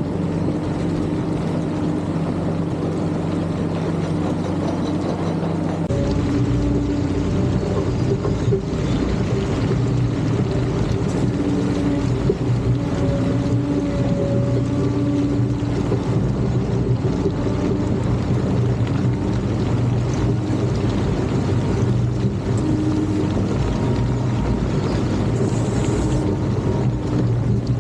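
Caterpillar D7 bulldozer's diesel engine running steadily. About six seconds in, its note changes and deepens, then holds with slight wavering in pitch.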